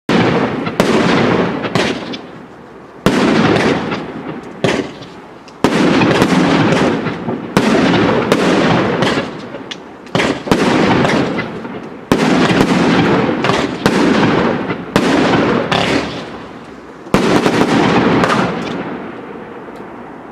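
Fireworks going off in rapid volleys: sharp bangs often less than a second apart, each trailing off in a fading rush of noise, with the last volley dying away near the end.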